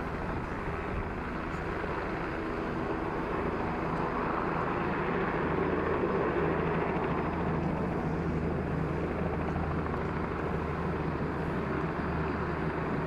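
Helicopter running close by, a steady drone of engine and rotor blades that swells slightly midway.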